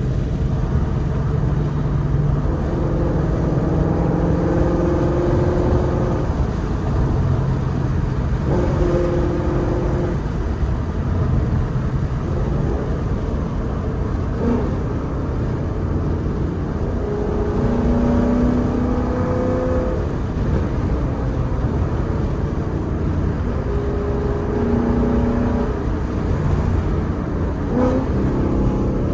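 Ford Mustang GT's V8 through its Stainless Power and Borla exhaust, driven under acceleration: the engine note climbs in pitch, then drops back at each gear change, several times over a steady deep rumble.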